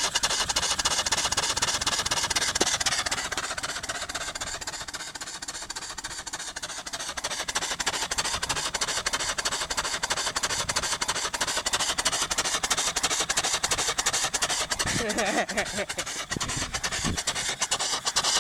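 A 3 hp Briggs & Stratton single-cylinder engine converted to run on steam, running fast with rapid, even exhaust chuffs over a near-constant hiss. The steam exhausts almost all the time because its cam still needs reworking. It slows and quietens a few seconds in, then picks up again.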